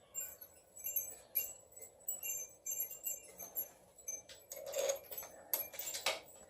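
Light metallic clinking of hand tools and bolts being handled during engine assembly: quick, irregular ticks with a bright ring, and two louder knocks in the last couple of seconds.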